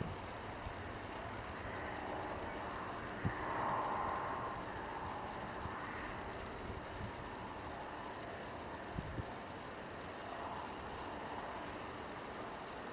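Steady running noise of a moving rail vehicle, with two short knocks, about three seconds in and again about nine seconds in.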